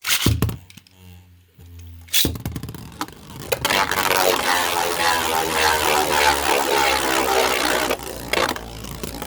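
Spinning battle tops (Beyblades) launched into a stadium. A sharp click comes near the start and another about two seconds in. Then comes a dense, scraping whir of the tops spinning across the stadium, easing near the end.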